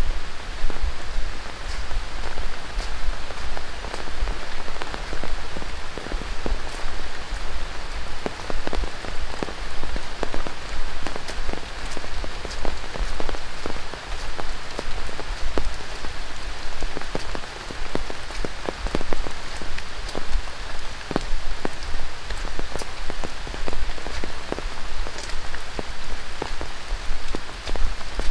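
Rain falling on dense rainforest foliage: a steady hiss with many separate sharp drop hits.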